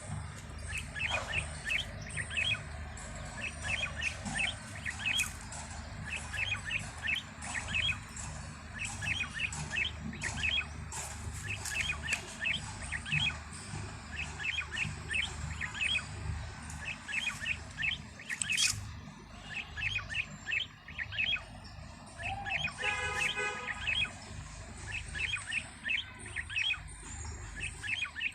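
Small birds chirping continuously, in quick series of short high chirps, over a steady low rumble. Near the end, a harsher, buzzier call stands out.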